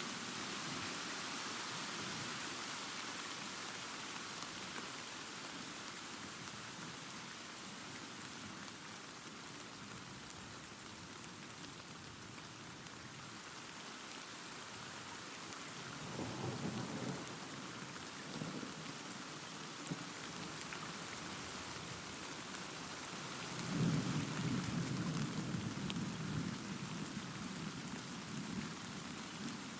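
Steady rain falling, with rolls of thunder: one rumble swells about halfway through and a louder, longer one rolls in near the end.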